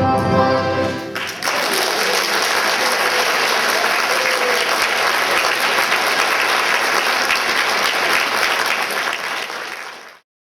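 An accordion orchestra's final held chord ends about a second in, and audience applause follows, which cuts off abruptly near the end.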